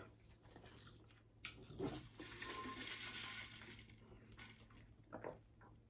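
Faint close-miked eating sounds: a few soft mouth clicks and smacks, with a longer soft rustle through the middle.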